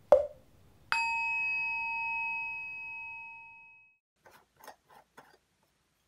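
A short ringing knock at the start, then a single clear metallic ding about a second in that rings and fades over about three seconds, followed by four light clicks.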